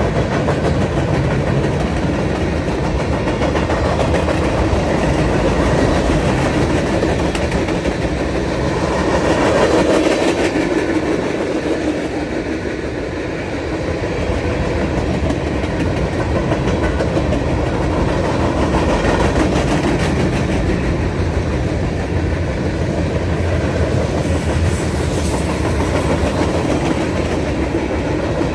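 Freight cars of a mixed train (boxcars, tank cars and covered hoppers) rolling past: a steady, loud running noise of steel wheels on the rails, swelling briefly about ten seconds in.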